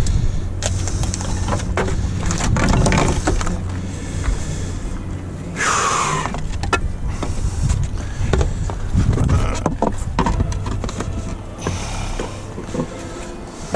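Clatter and knocks of tools and gear being handled over a steady low hum. About six seconds in comes a short screech of tape being pulled off its roll.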